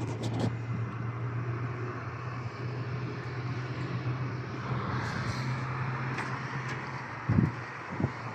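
Machine running with a steady low hum over a noisy hiss; two dull thumps near the end.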